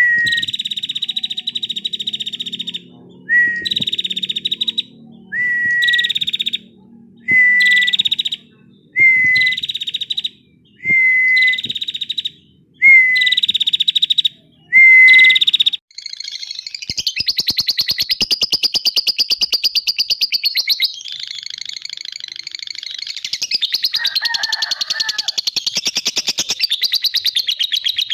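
Songbird singing a master song for training white-rumped shamas: about eight repeated phrases roughly two seconds apart, each a fast buzzy trill with a short whistled note, then from about halfway on one long unbroken fast trill.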